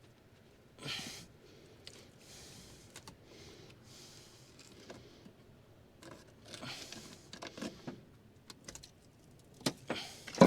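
Metal clinks, scrapes and knocks of hand work on a seized small-block Chevy V8 as the cylinder head is worked loose from the block. There is a louder scrape about a second in, a cluster of scraping clatter past the middle, and two sharp knocks near the end.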